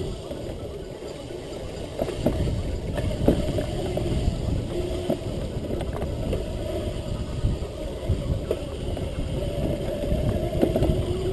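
Razor MX650 electric dirt bike running along rough ground: the wavering whine of its 650-watt electric motor over a heavy rumble, with scattered knocks and rattles from bumps.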